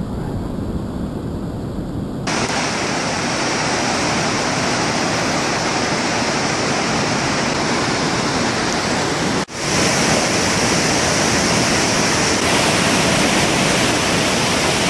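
Flash-flood water rushing past as a loud, steady torrent, with a brief dropout about nine and a half seconds in.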